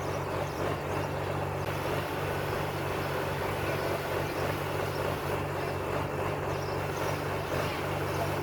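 Vehicle engine idling steadily: a low, even hum.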